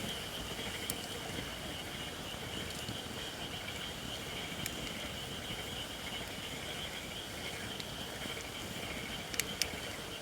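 Japanese white oak (shirakashi) firewood burning in a campfire, giving a few sharp pops and crackles, the loudest two in quick succession near the end, over a steady high-pitched background.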